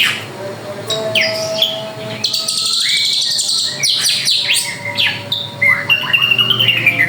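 Drongo (srigunting) singing in a fast, varied stream of sharp chirps and downslurred whistles, with a harsh buzzy passage in the middle and a wavering whistled note near the end.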